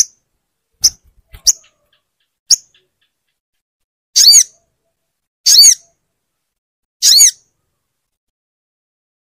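Sogon (crested jay) calling: four short, sharp high chips in the first couple of seconds, then three longer, high ringing calls about a second and a half apart.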